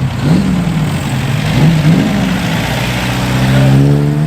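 A car engine accelerating. Its revs rise and drop twice in quick succession, then climb more steadily, with a louder swell near the end.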